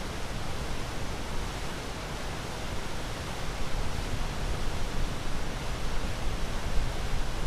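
Ocean surf as a steady, even rush, growing a little louder partway through.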